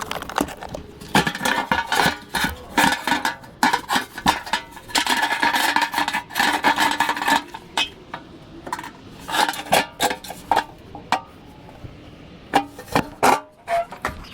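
Metal objects clanking, clinking and rattling as they are handled, in many quick irregular knocks, with a ringing metallic jangle through the middle.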